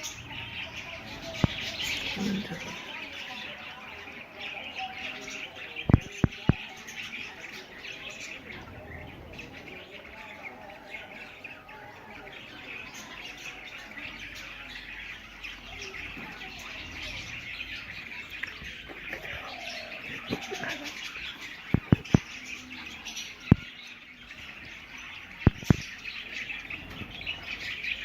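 A colony of budgerigars chattering and chirping continuously, many birds at once. Now and then there are sharp clicks, a few of them in quick pairs or threes.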